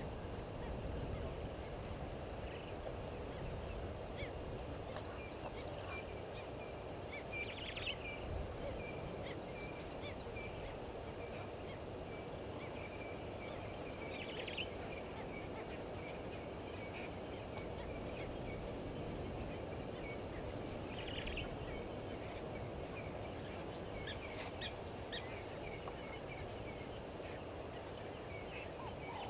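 Bush ambience: a bird gives short calls about every seven seconds, over faint continuous chirping and a steady low background hiss.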